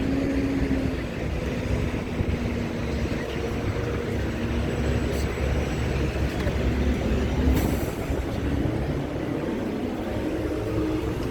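Steady low rumble of heavy vehicle engines, with a faint steady hum that fades in and out.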